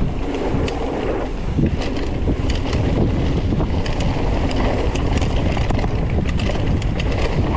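Wind buffeting the microphone while a mountain bike rolls fast down a dirt trail, with tyres rumbling over the ground and many quick clicks and rattles from the bike.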